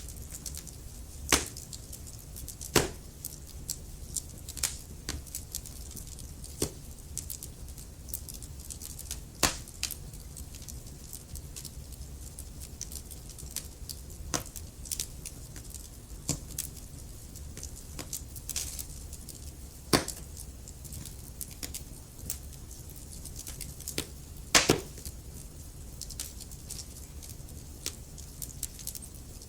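Wood fire burning in a fireplace: logs crackling with irregular sharp pops and snaps over a low steady rumble of the flames, the loudest pops about a second in, near three seconds, and around twenty and twenty-five seconds.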